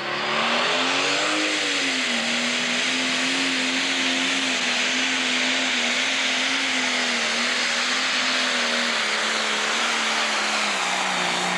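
Pro stock pulling tractor's turbocharged diesel engine at full power through a pull, a steady high engine note over loud turbo and exhaust hiss. The pitch rises about a second in and dips, then holds, sags slightly near the end, and the engine cuts off at the end of the run.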